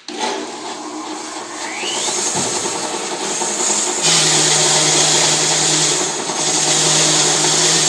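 Bandsaw mill running, a loud steady machine noise. About four seconds in it grows louder and hissier, with a steady low hum added, as if the blade were biting into the log.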